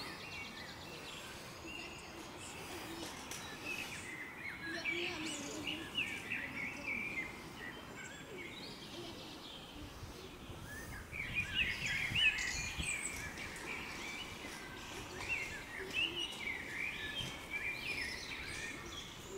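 Small birds chirping and singing in short warbling phrases, busiest in the second half, over faint outdoor background noise.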